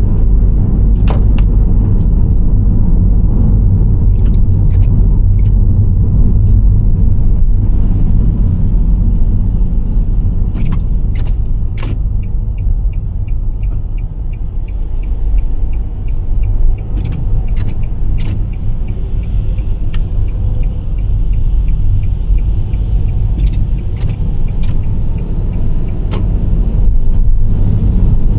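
Nissan Serena C25 minivan driving, a steady deep rumble of engine and road noise. Scattered small clicks and rattles sound throughout, and a faint, evenly spaced high ticking runs through the middle stretch.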